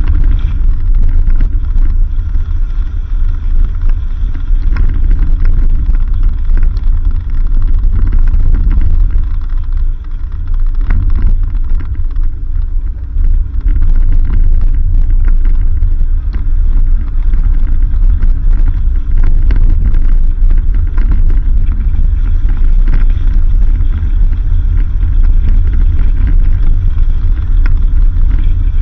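A 4x4 driving on a dirt road: a steady, loud low rumble from the vehicle and the rough road surface, with scattered small knocks and rattles from the bumps.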